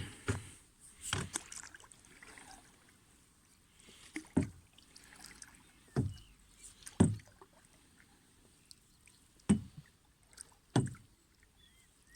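Oars rowing a small tender: irregular strokes about every one to two seconds, each with a short knock of the oar in its rowlock and a splash of the blade.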